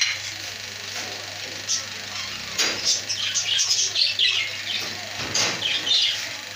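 Small birds chirping over and over in quick, high-pitched calls, thickest in the middle few seconds.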